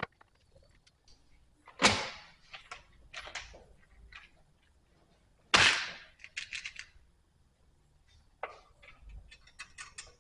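Two loud, sharp clatters about four seconds apart, each ringing briefly, with lighter taps and clicks between them: hard objects such as tools or parts being handled and set down.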